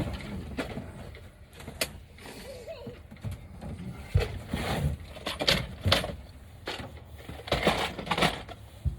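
Irregular knocks and clatters, about a dozen, of wood and tools being handled.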